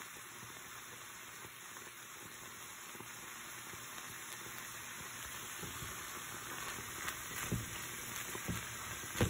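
Ground beef, onion and green chili mixture sizzling steadily in a skillet. In the last couple of seconds a spatula stirs it, with a few scrapes and knocks against the pan.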